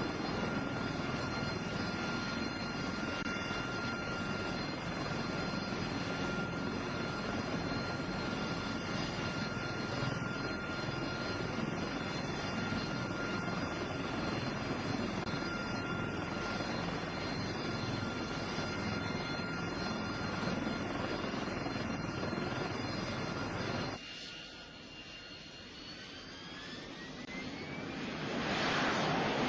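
Engine running steadily with a high whine over a broad drone. About 24 seconds in it drops away abruptly, leaving faint rising whine tones, and a rush of noise builds near the end.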